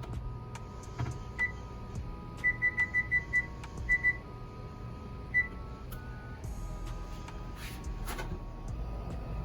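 Short electronic beeps from a kitchen appliance's control panel, as when buttons are pressed: one beep, then a quick run of six, a pair, and a last single beep, over soft background music.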